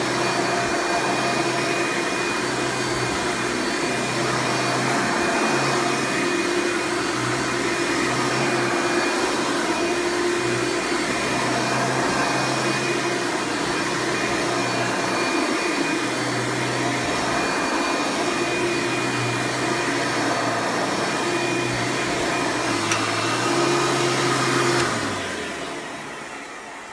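Hoover Preferred (Elite) upright vacuum with a 7.2 amp direct-air motor running loud and steady as it is pushed over carpet with its brush roll turning. Near the end it is switched off and the motor winds down, fading away over a couple of seconds.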